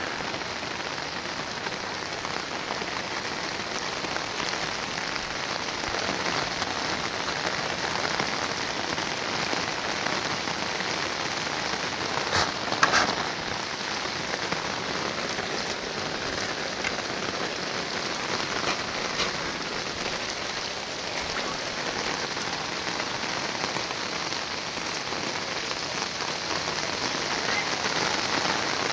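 Steady hiss of rain falling on floodwater and wet ground, with a brief louder clatter about thirteen seconds in.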